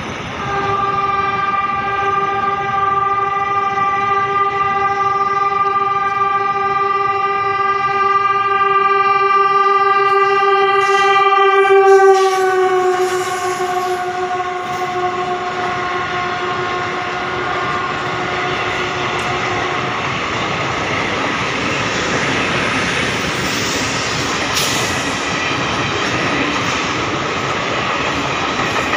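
Passing passenger train sounding a long, steady horn for about twelve seconds. The horn drops in pitch as the train reaches the spot and fades, while the coaches clatter past over the rail joints.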